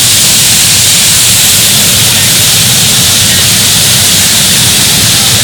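Water rushing over small waterfalls and cascades close by: a loud, steady rush that does not let up.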